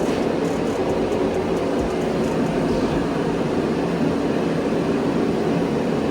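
Propane space heater running, a steady, continuous rushing hum with no breaks.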